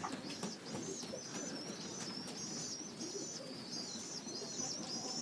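Birds calling: a short high chirp repeated about twice a second, with faint pigeon cooing underneath.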